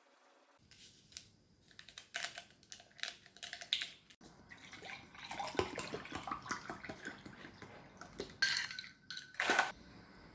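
Kitchen sounds: dishes and utensils clinking and knocking, with water splashing or running through the middle.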